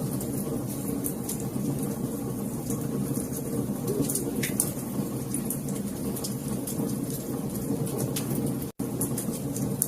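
Wood fire crackling, with frequent sharp pops and snaps over a steady low rumble of flames. The sound cuts out for an instant about nine seconds in.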